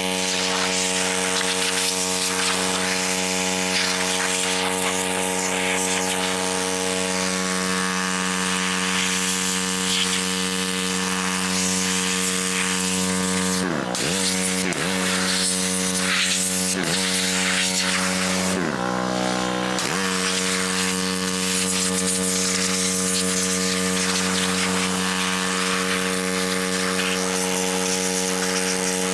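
Small single-cylinder gas engine running at a steady speed, the 212cc engine of a RYOBI 3300 PSI gas pressure washer. A few quick dips in pitch come about halfway through.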